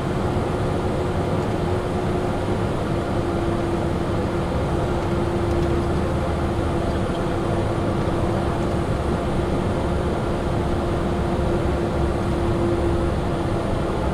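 Steady cockpit noise inside a Cessna Citation Sovereign business jet: rushing airflow and engine hum with one constant droning tone.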